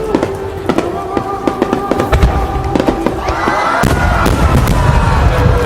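Aerial fireworks going off: a rapid run of sharp cracks and pops, with deep booms thudding in from about two seconds in, over steady held tones of music.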